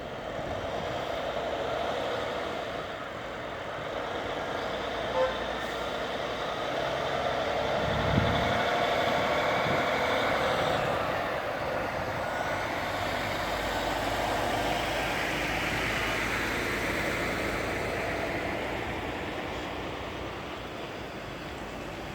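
Bombardier Flexity 2 tram running past, its running noise swelling and fading. A short high beep comes about five seconds in, and a low thump about eight seconds in.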